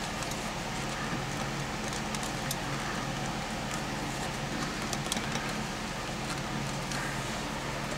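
A steady low hum of something running, with a few soft clicks and ticks of small parts being handled.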